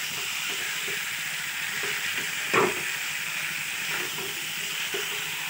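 Mutton and potatoes sizzling in thick spice paste in a metal wok while being stirred briskly for mutton kosha, with small scrapes and knocks against the pan. One louder knock on the pan comes about two and a half seconds in.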